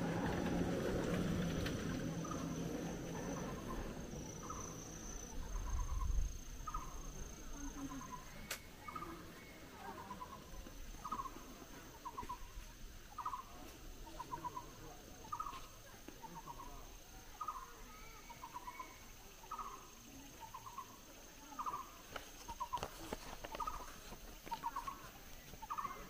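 A bird calling over and over in short, rattly calls about once a second, alternating between a slightly higher and a slightly lower note, beginning a couple of seconds in. A low rumble fills the first few seconds.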